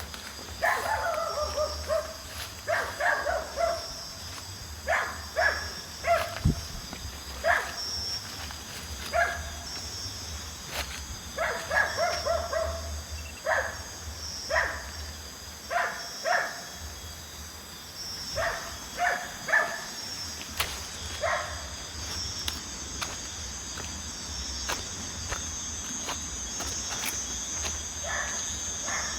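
Crickets chirping steadily, with a dog barking repeatedly, a few short barks at a time.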